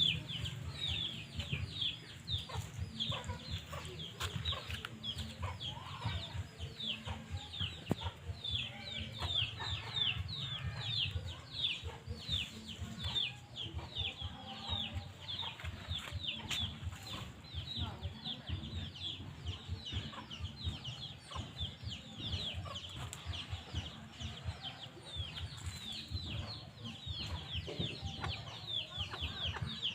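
Chickens clucking, with a continuous run of high, falling chirps, several a second.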